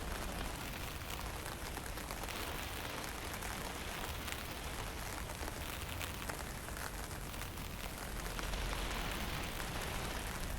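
Light rain and misty drizzle falling with steady wind: an even hiss with faint scattered drop ticks over a low rumble of wind.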